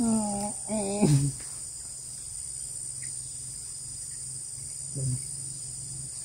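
A steady, high-pitched chorus of crickets or other insects, with a man's voice at the start.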